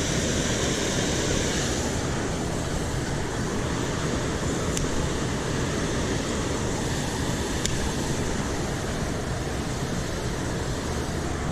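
Steady rush of water pouring over a small creek spillway, an even hiss with no let-up. Two faint ticks about five and eight seconds in.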